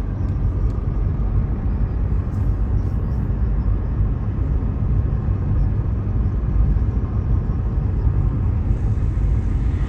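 Steady low rumble of road and engine noise from a car driving along the road, heard from inside the car. Near the end, a brief louder rush of noise rises over it.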